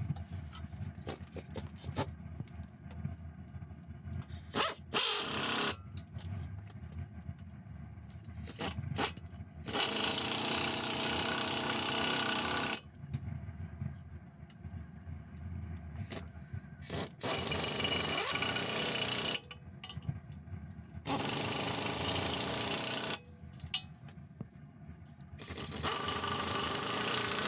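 Impact wrench run in repeated bursts of two to three seconds, driving bolts home, with faint metal clinks of tools and parts between the bursts.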